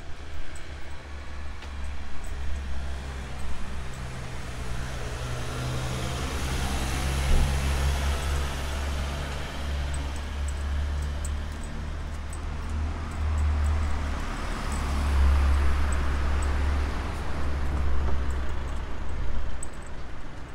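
Street traffic: motor vehicles passing on the road, with a low engine rumble underneath and two passing swells, the louder about two-thirds of the way through.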